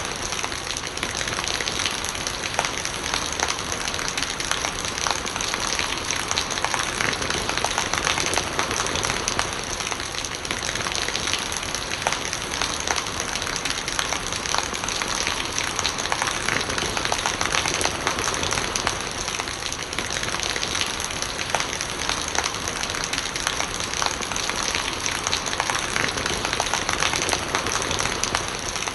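Steady rain, a dense patter of drops, with rainwater gurgling.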